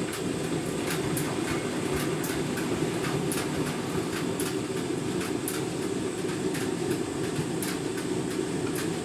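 Candy washing machine running a deep rinse cycle. There is a steady low hum with a light, irregular clicking several times a second.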